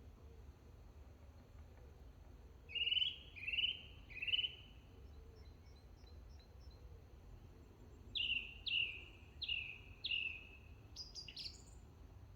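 A bird calling in woodland: a group of three clear calls about three seconds in, then a run of four shorter calls that each drop in pitch, about eight seconds in, and a few quick higher notes near the end, over steady low background noise.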